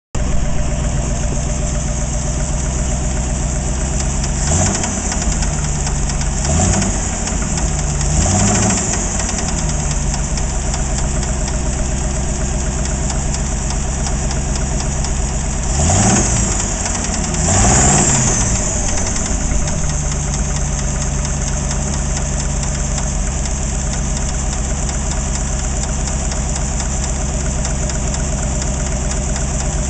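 AMC 360 V8 idling with a knocking, rattling sound, blipped up in revs and back down five times. The knock began after the engine overheated, and the oil shows no metal shavings.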